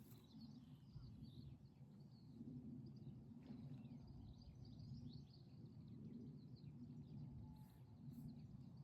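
Quiet ambience: faint small birds chirping on and off over a low, steady rumble.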